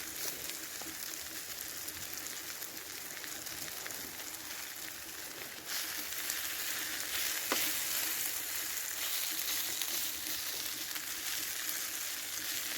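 Steady sizzling from a pot of food cooking on a hot camp stove, getting louder about six seconds in, with a single sharp click partway through.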